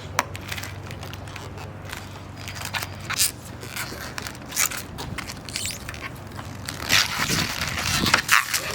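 Irregular crackling, scraping and tearing of material being peeled off the freshly cut aluminium panel, coming away in bits. A low steady hum stops about three seconds in.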